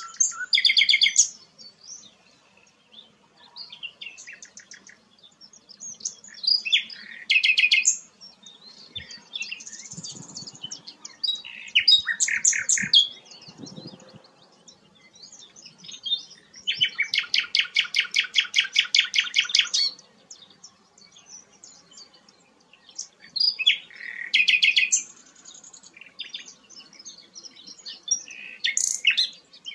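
Songbird singing in separate phrases of fast, repeated high notes with short pauses between them; the longest phrase, just past the middle, is a rapid trill of about seven notes a second lasting some three seconds.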